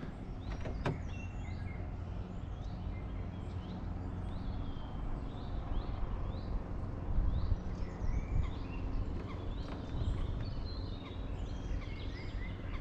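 Several small birds chirping and singing in short, rising and falling calls, over a steady low rumble.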